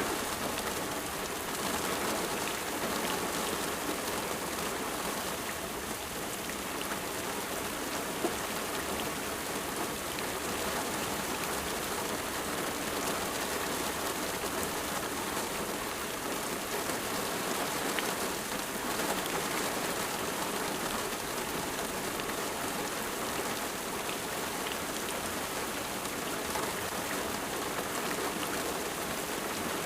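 Steady rain falling, a dense even hiss of drops with small individual patters.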